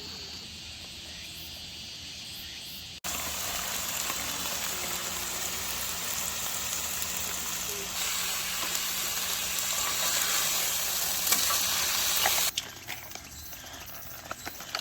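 Food frying with a steady sizzle, starting suddenly about three seconds in and cutting off near the end.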